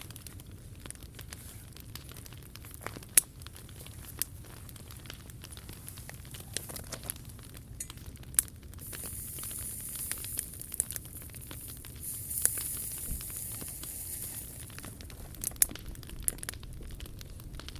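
Wood fire burning in a POMOLY T-Brick Ultra fire pit, crackling with scattered sharp pops and snaps. A high hiss swells for several seconds in the middle.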